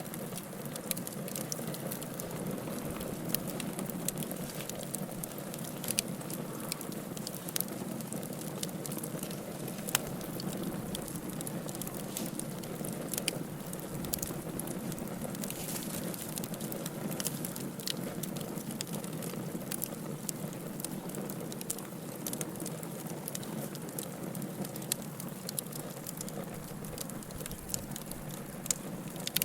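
Wood fire burning in a fireplace: a steady low rush of flame with frequent small, irregular crackles and pops.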